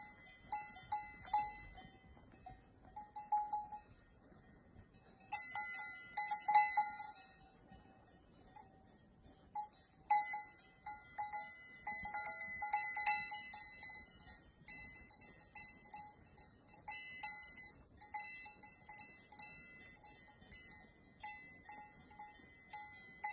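Bells worn by a herd of sheep clanking irregularly as the animals move, several bells ringing at once and overlapping, thicker in a few stretches.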